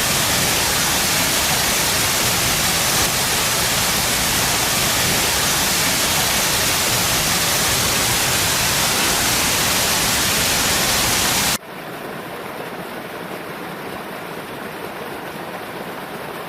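Waterfall rushing: a loud, steady roar of falling water. About eleven and a half seconds in, it cuts abruptly to a quieter, duller rush of water.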